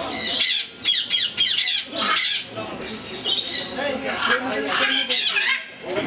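Many birds chirping and squawking at once in short, rapid calls, over a background of people talking.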